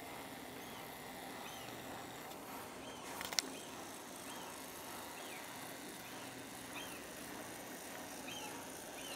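A small bird calling over and over, one short high chirp about every second, over faint steady outdoor background noise. A single sharp click about three seconds in.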